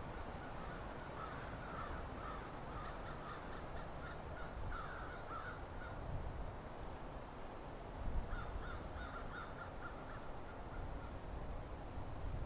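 Birds giving runs of short, harsh calls in two bouts, over a steady low background rumble.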